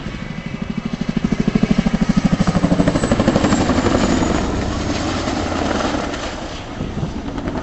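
Chinook helicopter's twin tandem rotors beating with a rapid, even blade slap, swelling to its loudest about two seconds in and then easing off.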